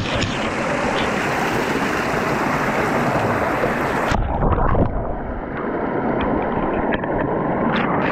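Steady wind rushing over the microphone of a riding electric mountain bike, with rolling noise beneath. About four seconds in, the high hiss drops away suddenly, leaving a lower rumble.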